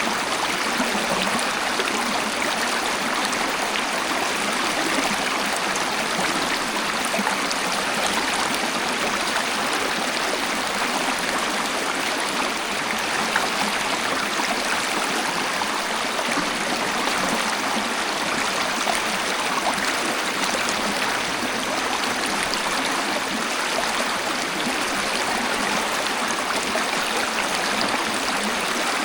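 Waterfall: a steady, even rush of falling and splashing water, with little low rumble.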